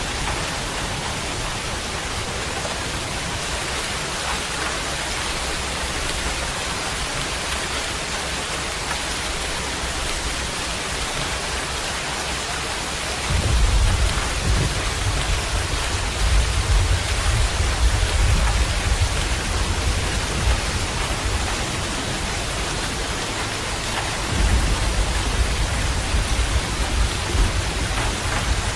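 Steady rain falling, with a deep rumble of thunder that sets in about halfway through and comes back near the end.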